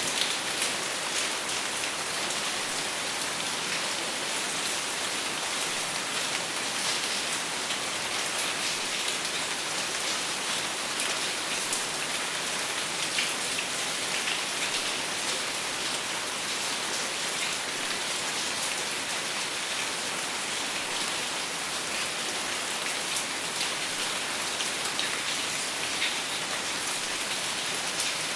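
Steady rain falling without thunder, a constant hiss with many fine drop ticks.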